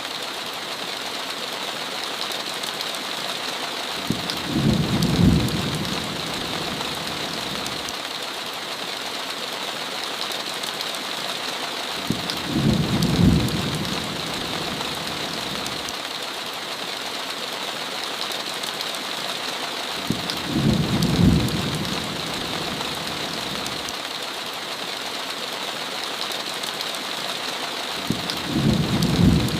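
Steady heavy rain hissing on a window, with four short low rumbles of thunder spaced evenly about eight seconds apart.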